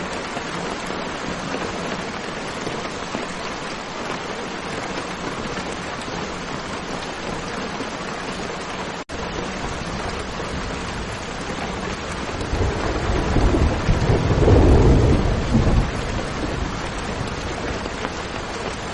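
Steady heavy rain hissing, with a low roll of thunder building about two-thirds of the way through and fading a few seconds later. The sound breaks off for a split second about halfway through.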